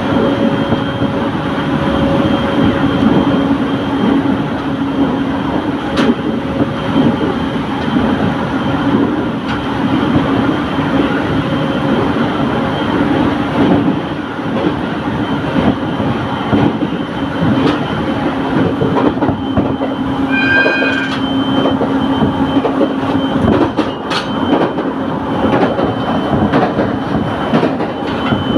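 IGR Iwate Galaxy Railway rapid train running at speed: a steady rumble of wheels on rail with a constant hum and occasional sharp clicks. A brief high, pulsing ringing tone comes about two-thirds of the way through.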